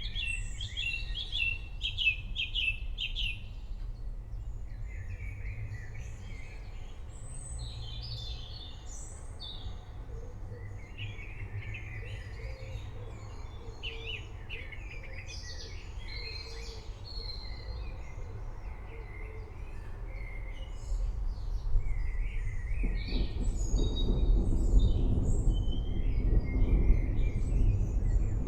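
Many birds chirping and calling over a steady low rumble. A little over twenty seconds in, a deeper roll of thunder swells and grows louder.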